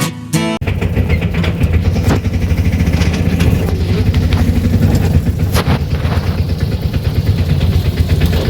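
A motor vehicle engine running steadily with a fast, even low pulsing and a few light knocks. A short strum of guitar music cuts off about half a second in, just before it.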